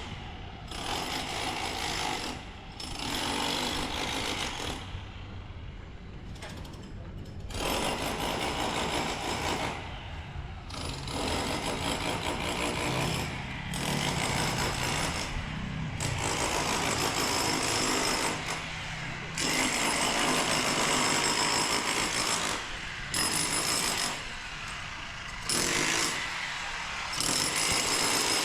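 A power tool running in repeated bursts of one to four seconds, with short pauses between them.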